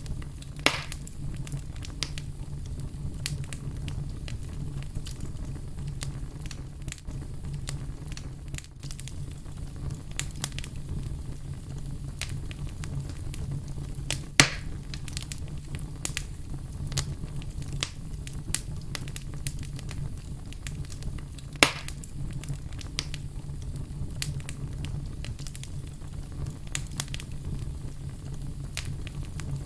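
A fire crackling, with a steady low rumble underneath and a continual scatter of small snaps. Three louder pops stand out: about a second in, about halfway through, and about two-thirds of the way through.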